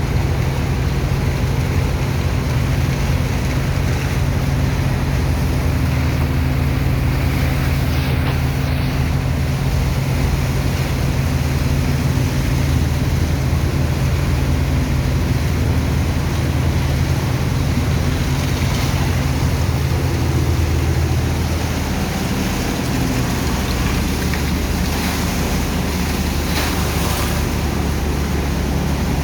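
Engine of a sand-dredging pump machine running steadily with a constant low hum, over rushing water; its low note shifts slightly about two-thirds of the way through.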